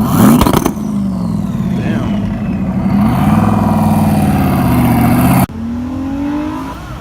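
Car engines revving hard: sharp crackles in the first second, then a rev climbing and held high, cut off abruptly about five seconds in and replaced by a quieter engine running at lower revs.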